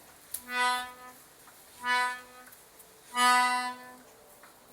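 A reedy single-note tone sounded three times, about 1.3 seconds apart, each held for half a second to a second at the same steady pitch; the third is the longest and loudest.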